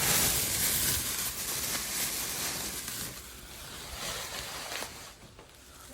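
Plastic bags rustling as they are handled, growing quieter toward the end.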